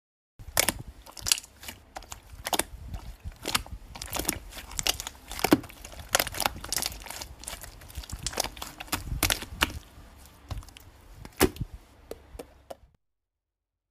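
Slime being squished and pressed in the hands, making a run of sharp, irregular clicks and pops. It starts about half a second in and stops abruptly about a second before the end.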